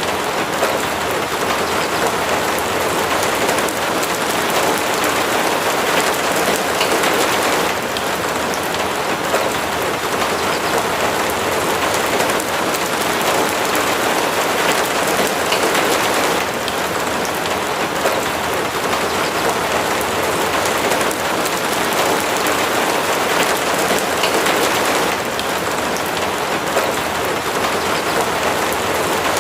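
Steady, heavy rain falling: a dense, even hiss of drops.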